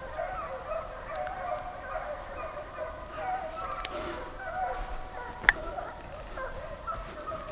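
Pack of deer hounds baying while running a deer, several voices overlapping and wavering, faint with distance. A single sharp click about five and a half seconds in.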